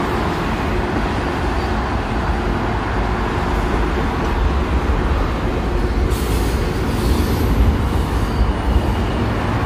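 CSX freight train cars rolling past on the rails: a steady, low rumble and clatter, with a brief hiss about six seconds in.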